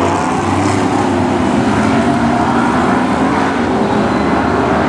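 Several BriscA F1 stock cars' V8 engines running together, a loud, steady blend of engine notes at different pitches.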